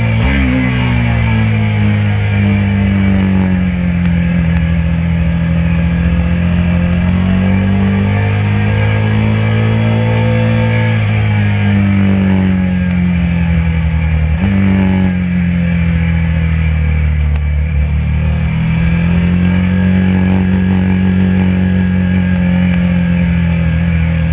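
KTM RC 390's single-cylinder engine running at part throttle as the bike slows. Its revs rise and fall slowly, with a sudden jump in revs about fourteen seconds in, over a rush of wind.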